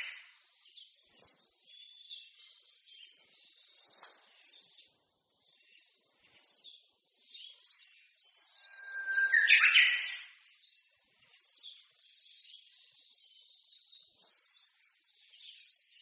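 Wild songbirds singing in a spring forest: many birds give small high chirps throughout. One bird near the middle sings a loud song, a held whistled note followed by a quick flourish.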